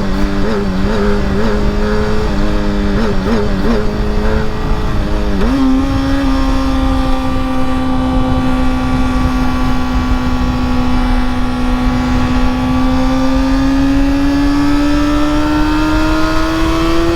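Honda CBR sport bike engine running under way with wind rumble on the microphone. Its pitch wavers over the first five seconds, jumps up about five and a half seconds in, holds steady, then climbs slowly as the bike accelerates.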